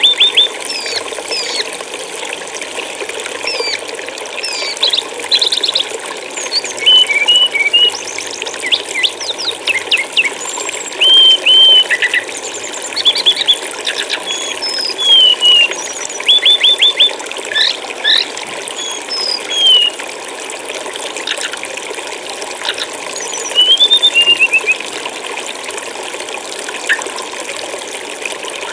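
Steady rush of running water with small birds chirping over it: short whistled notes, rapid trills and quick sliding calls, coming in scattered bursts.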